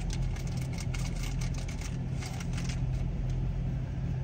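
Car engine idling, a steady low hum heard inside the cabin, with scattered faint clicks.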